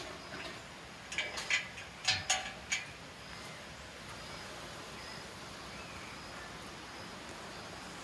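A bird calling several times in quick succession, short sharp calls in the first few seconds, over a steady rainforest hiss with a few faint high chirps.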